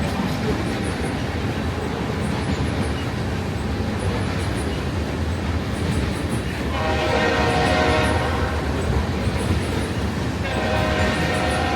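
Train running past on the track with a steady rumble, and the locomotive horn sounding two long, chord-like blasts, the first about seven seconds in and the second near the end.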